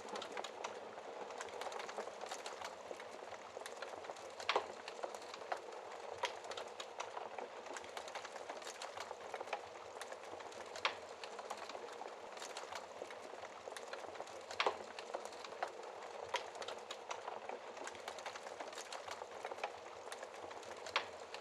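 Wood fire in a fireplace burning with a steady soft hiss and frequent small crackles, with a few sharper pops from the burning logs every few seconds.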